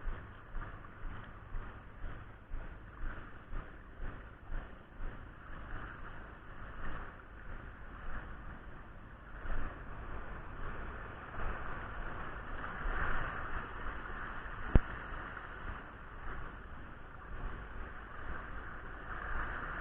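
Outdoor noise of wind buffeting the microphone over the wash of surf on a beach, swelling and easing irregularly, with one sharp click about fifteen seconds in.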